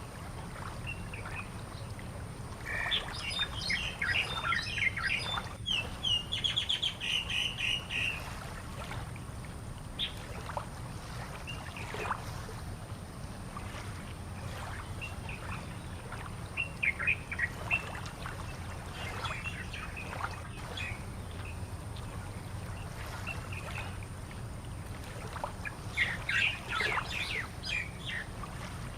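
Birds chirping and calling in several bursts of quick notes, over a steady low background rumble.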